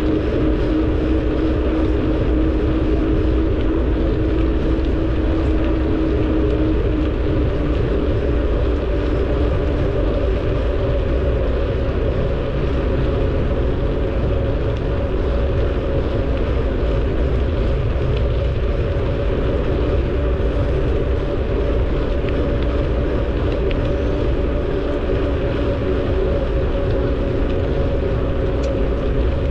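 Wind rushing over the microphone of a camera on a moving bicycle: a steady low rumble with a faint, steady hum running through it.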